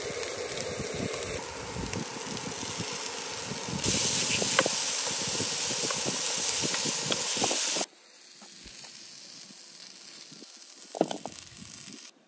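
Diced potatoes, chickpeas and mushrooms sizzling and crackling in a hot frying pan, getting louder about four seconds in with chopped bell pepper in the pan being stirred with a wooden spatula. The sizzle cuts off suddenly about eight seconds in, leaving quieter sounds and a short knock near the end.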